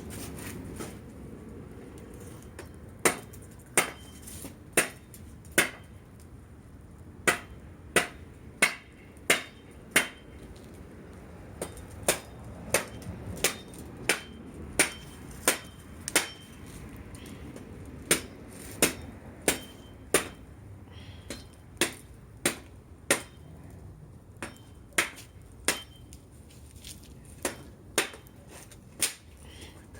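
A machete hacking repeatedly at a piece of firewood, about thirty-five sharp blows, roughly one a second, some in quicker runs. The blade is dull, so the wood doesn't split.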